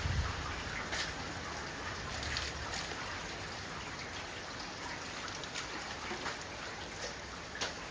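Rain and hail falling in a steady hiss, with a few sharp hailstone hits scattered through it.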